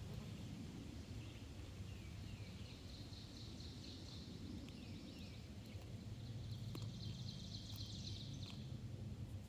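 Songbirds singing: a few short downward-slurred notes and two longer trills, the second about seven seconds in, over a steady low rumble.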